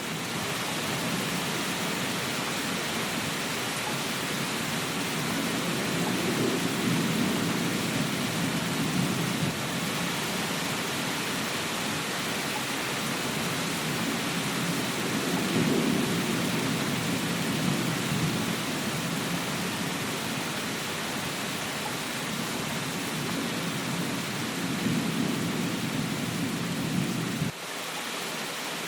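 Steady rain hissing, with a low rumble that swells and fades about three times. The rumble cuts off abruptly near the end, leaving only the rain.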